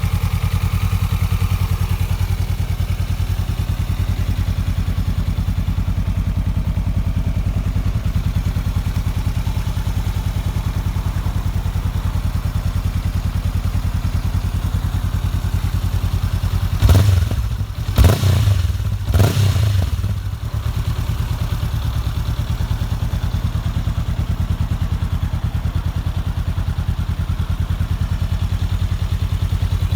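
Honda CB500X parallel-twin engine idling steadily through a Fuel carbon aftermarket exhaust, with three quick throttle blips about halfway through before it settles back to idle.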